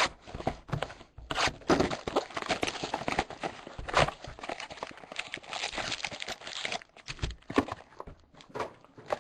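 Packaging of trading-card boxes being handled: irregular crinkling and rustling of wrappers, with light knocks of cardboard as packs and mini boxes are taken out of the boxes.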